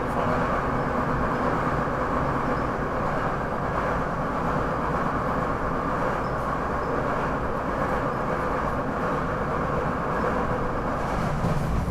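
SEPTA Regional Rail electric passenger train running, heard from inside the car: a steady, unbroken rumble and hiss of wheels on rail.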